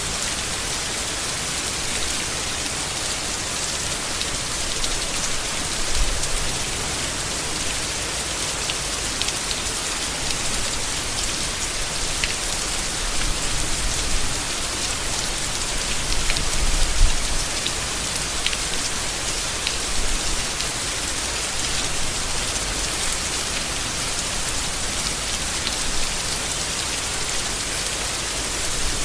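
Steady rain falling on leaves, with scattered sharper drop ticks and a few brief low swells in the patter.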